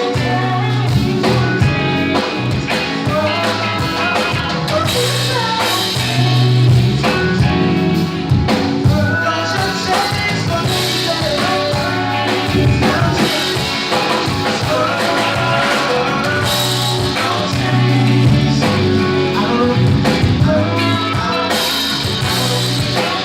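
Live band playing a soul cover, with a strong, steady bass line under the other instruments.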